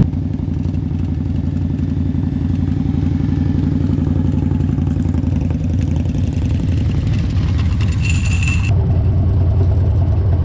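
Motorcycle engine running steadily under way, a low, even drone with a fast firing pulse. Around eight seconds in a brief higher whine joins it and cuts off abruptly.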